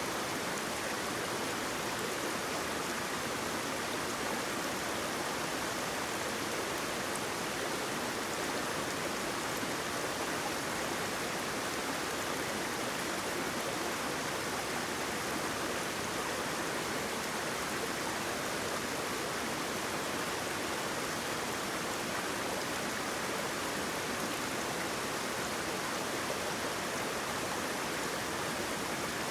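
Flowing water: a steady, even rush of a stream or small waterfall, unchanging throughout.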